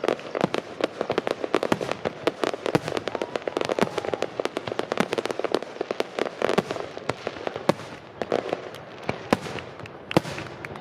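Aerial fireworks bursting in a rapid barrage, a dense run of sharp bangs and crackles many times a second that thins out to scattered bangs in the last few seconds.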